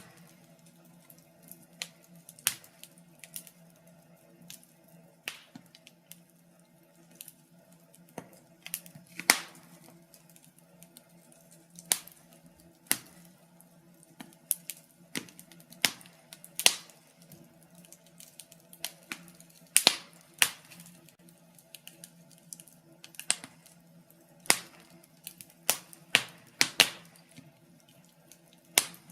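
Wood fire in a fireplace crackling: irregular sharp pops and snaps, a few much louder than the rest, over a faint steady hum.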